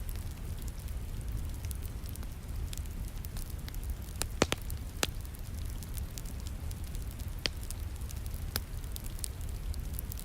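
Wood fire crackling in a fireplace, with a few sharp pops, the loudest a little over four seconds in, over a steady hiss and low rumble of falling rain.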